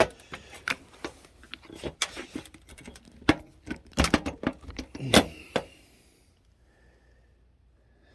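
Parts of a disassembled car engine mount being handled, a quick irregular run of clicks and knocks that stops about six seconds in.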